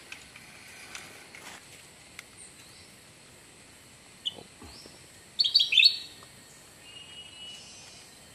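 Birds chirping: a few scattered short high calls, then a quick burst of rapid chirps about five and a half seconds in, the loudest moment.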